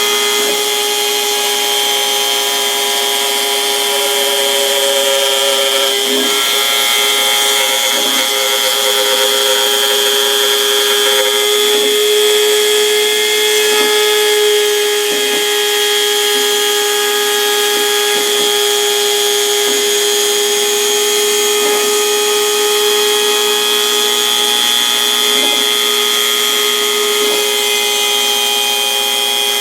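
Home-made CNC router cutting 4 mm plywood: the spindle runs with a steady whine over the noise of the bit in the wood, with faint irregular ticks.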